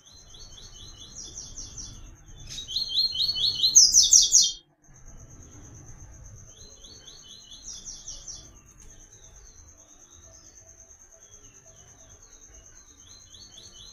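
Papa-capim (coleiro) seedeater singing. It gives repeated phrases of quick, clear notes that step up from a lower series to a higher one. The loudest phrase comes about three to four seconds in and cuts off abruptly. A thin, steady high tone runs underneath throughout.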